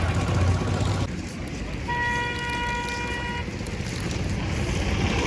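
A vehicle horn giving one steady toot of about a second and a half, about two seconds in, with a low engine rumble at the start and rising noise near the end.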